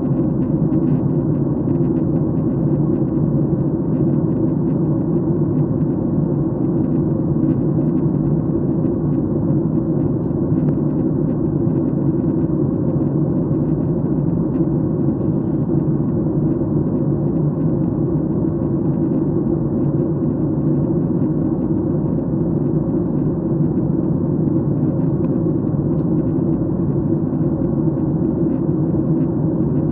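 Airliner cabin noise in flight: a steady, even hum of the engines and air rushing past the fuselage, with a few low steady tones.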